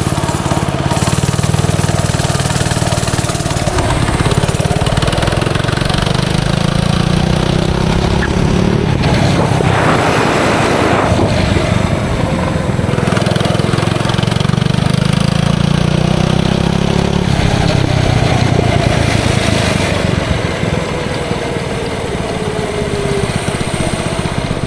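Small single-cylinder minibike engine, fitted with a header pipe and a dirt-bike slip-on muffler, running under way while being ridden, heard from the rider's helmet. Its pitch rises and falls several times as the throttle is opened and eased off, with a brief rush of noise about ten seconds in.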